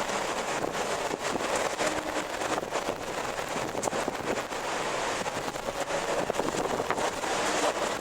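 Wind blowing steadily, a dense rushing noise, with a couple of faint creaks.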